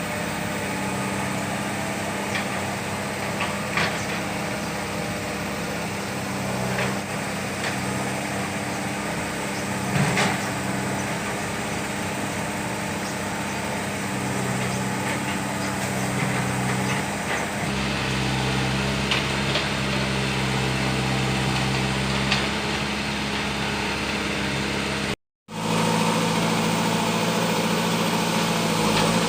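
Backhoe loader's diesel engine running steadily, with a few short knocks over the top. The sound drops out completely for a moment near the end.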